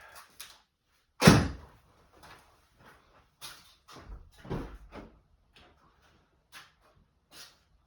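A car door shuts with one loud thud about a second in, followed by quieter rustling and small knocks.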